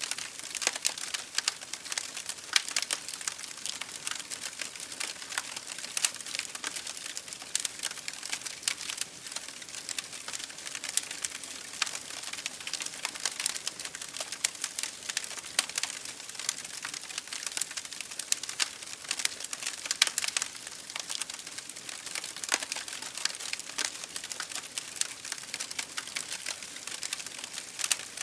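Wood fire burning in an open fireplace, with dense, irregular crackles and pops over a steady hiss.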